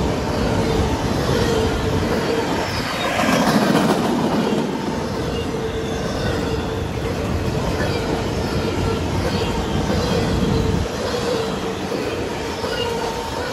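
Freight train's intermodal well cars rolling past close by: steady noise of steel wheels on rail with a faint steady tone running under it. It swells louder about three to four seconds in.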